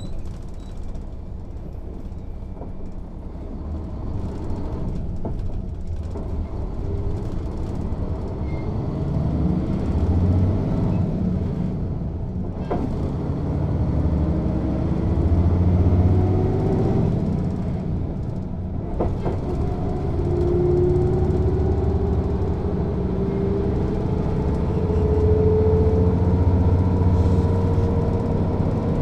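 Mercedes-Benz O 407 bus's diesel engine heard from on board, pulling and gaining speed: the engine note climbs in long rising sweeps, broken twice by a brief drop at a gear change, about halfway and two thirds of the way through.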